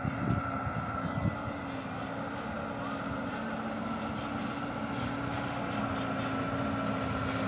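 Dump truck engine running steadily, with a few knocks in the first second or so.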